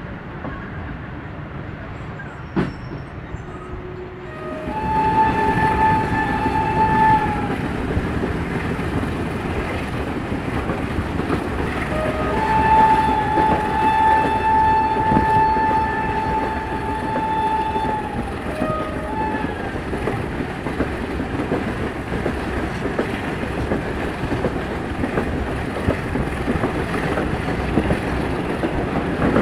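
Passenger train running, heard from an open carriage window: a steady rumble of wheels on the track, with the locomotive horn sounding twice, a blast of about two and a half seconds some five seconds in and a longer one of about six seconds from twelve seconds in. A single sharp knock about two and a half seconds in.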